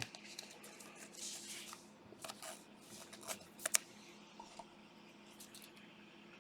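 Trading cards being handled: soft rustling and sliding with a few sharp clicks, over a faint steady hum.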